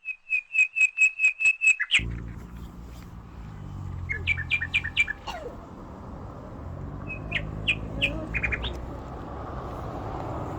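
Small birds chirping: a fast, even run of about a dozen high chirps at the start. After an abrupt change to a steady low rumbling background, two more short clusters of chirps follow.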